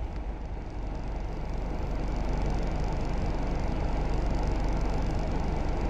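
Steady low rumble of a stationary car with its engine running, heard from inside the cabin.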